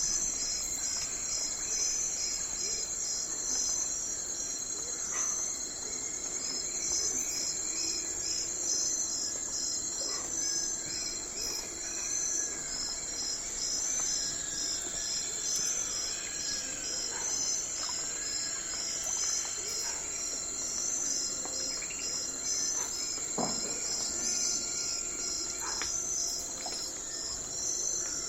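Night forest ambience: crickets and other insects chirp steadily in fast, even pulses over a high continuous trill. Partway through, an animal gives a series of short calls that rise and fall.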